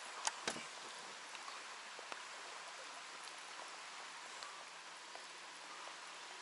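Steady hiss of light rain falling on the lake, with two sharp clicks in the first half second and a few faint ticks after.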